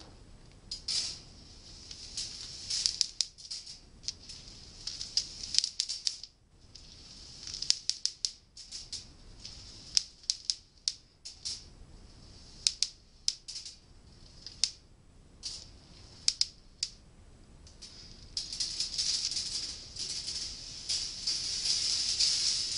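Balls rolling along the stainless steel rails of a desktop rolling ball sculpture: a high metallic rolling hiss with many sharp clicks and rattles as they run over the track pieces. The rolling becomes denser and louder for the last few seconds.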